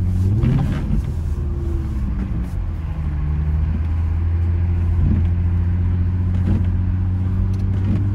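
Infiniti G35 coupe's 3.5-litre V6 engine heard from inside the cabin, running at fairly steady low revs with a deep drone. A few short rising-and-falling sounds come and go over it.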